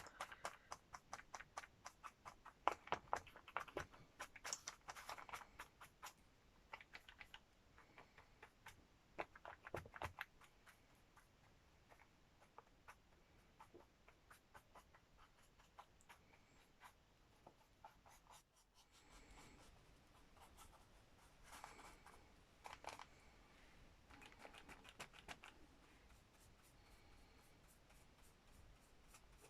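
Faint, quick, irregular taps and light scratches of colour being dabbed onto a hardback book cover, coming in clusters with a sparser lull in the middle.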